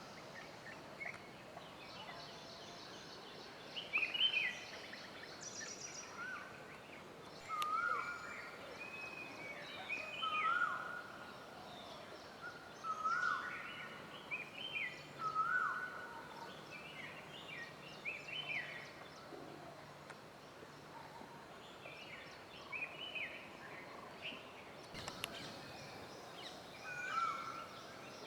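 Several wild birds calling in a forest chorus. One bird repeats a short call every two to three seconds, and other birds' higher calls and a faint high chatter sound between them.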